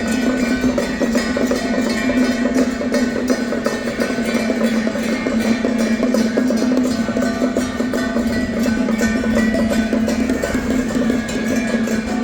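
Traditional music with fast, dense percussion clattering over a steady held tone.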